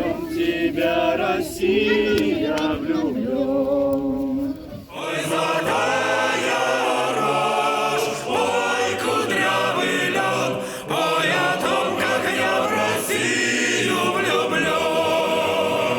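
Group of voices singing a song together, with an abrupt cut about five seconds in to another stretch of the singing.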